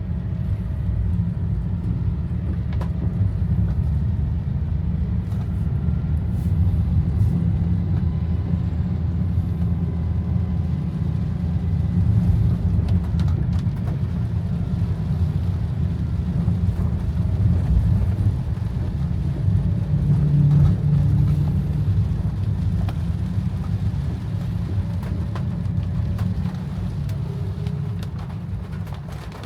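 Low, steady road and engine rumble of a car being driven, with a few faint scattered ticks. It eases a little near the end.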